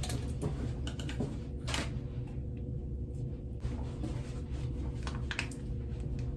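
Hands working leave-in conditioner through hair: soft rustling and handling noises, a few sharper rustles about two seconds in and near the end, over a steady low hum.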